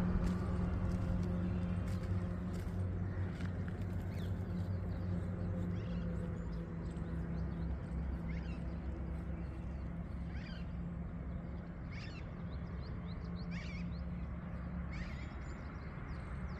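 A bird calling in short falling chirps, about one every second and a half through the second half, over the steady low drone of a vehicle engine that slowly fades away.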